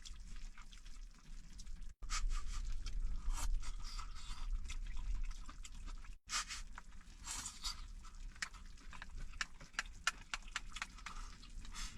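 Eating from a pot of stewed meat and cabbage: irregular clicks and scrapes of chopsticks against the pot, with chewing and crunching.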